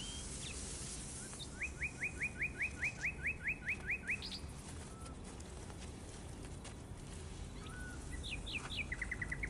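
A small songbird singing: a run of about a dozen quick rising notes, about five a second, then a shorter phrase with a quick trill near the end.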